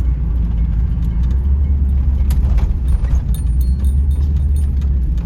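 1984 Pontiac Trans Am's V8 running at low speed, heard from inside the car as a steady low rumble as it creeps into a parking spot. A few light clicks and faint high tones come around the middle.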